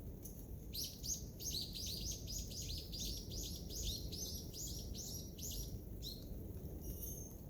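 A songbird singing a long run of quick, repeated high notes, about four a second for some five seconds, with a brief call near the end.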